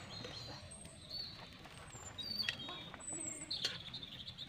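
Birds chirping in short, high calls, with a few sharp clinks of a metal spatula against a wok as noodles are stirred.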